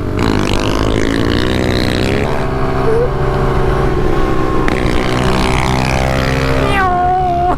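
Pit bike engine under way. Its pitch climbs as it revs for about two seconds, drops sharply at a gear shift, then runs steadily.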